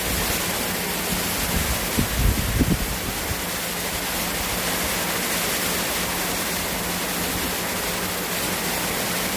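Steady rain falling, an even hiss, with a few low thumps about two seconds in.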